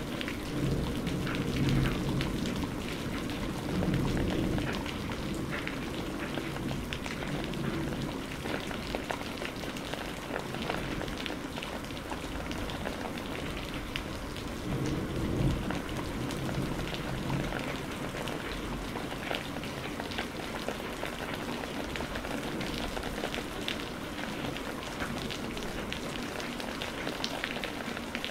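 Steady rain pattering, with many small drop ticks. Low thunder rumbles swell up three times: about a second in, around four seconds, and about fifteen seconds in.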